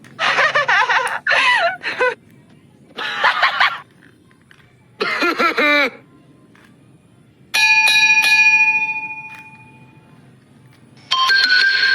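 A single electronic bell-like chime strikes about seven and a half seconds in and rings away over a couple of seconds; near the end a simple electronic tune of stepped notes starts. Before the chime come three short bursts of a high, wavering voice.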